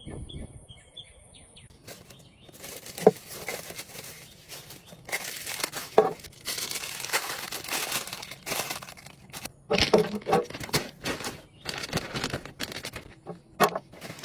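Packaging crinkling and tearing in irregular rustles with sharp crackles, typical of unwrapping a newly bought bird feeder. A few faint bird chirps sound in the first second.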